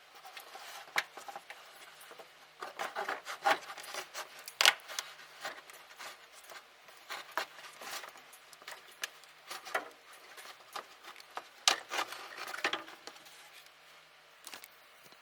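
Irregular clicks, knocks and scraping of hand work on parts, in clusters, loudest about four seconds in and again near twelve seconds.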